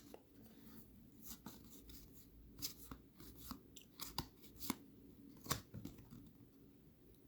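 Faint, scattered ticks and light rustles of trading cards being handled, slid and flipped through by hand, about eight small clicks spread unevenly over a few seconds.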